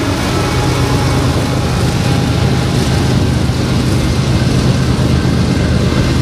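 BNSF freight train passing close by: the diesel locomotives' engines run past, then double-stack intermodal container well cars roll by with steady wheel and rail noise.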